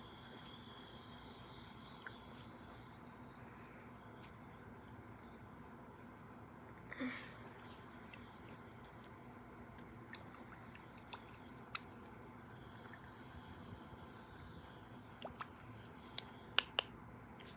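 Spray mister bottle spraying a fine, hissing mist in two long sprays: the first stops about two and a half seconds in, the second starts about seven seconds in and runs for about nine seconds before cutting off.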